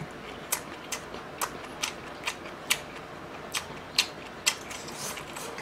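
Close-up chewing of a full mouthful of food, heard as a string of sharp, wet mouth clicks about two a second.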